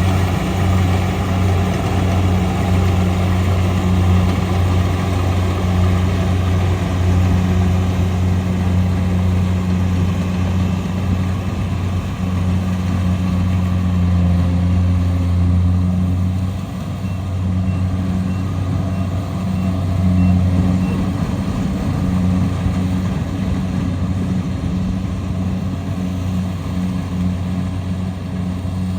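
Rice combine harvester's engine running steadily with a loud, even low hum, easing slightly about two-thirds of the way through.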